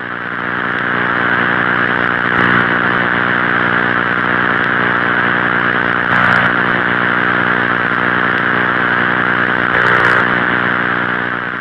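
Space 'sound' from the Uranus system, a space recording turned into audio: a steady, buzzy electronic drone of many stacked low tones under a hiss, swelling slightly three times.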